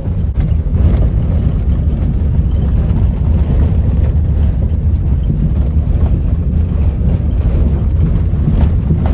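Steady low rumble of a vehicle driving on a rough road, with a few faint knocks and rattles.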